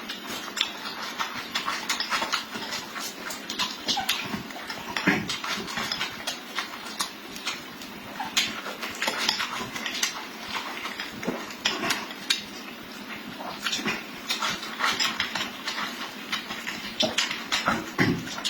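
Close-miked eating: irregular wet chewing and smacking clicks, with occasional clinks of utensils on dishes.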